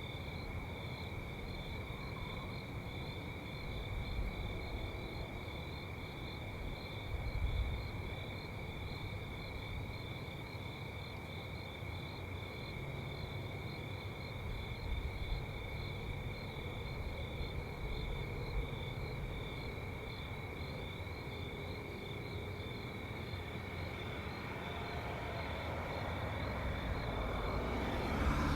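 A steady insect chorus: one continuous high trill and a second, higher one that pulses rapidly, over a low rumble of traffic. The rumble grows louder over the last few seconds as a vehicle approaches.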